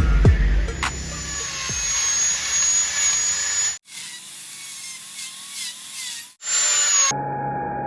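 High-pitched whine of electric power carving tools working wood, in several short segments joined by abrupt cuts, each with its own steady pitch.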